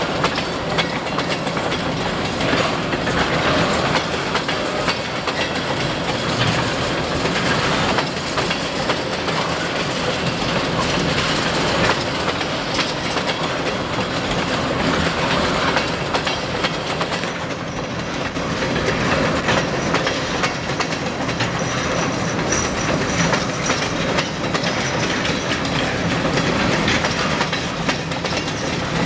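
Freight train of black tank cars rolling past, a steady rumble with the wheels clicking over rail joints.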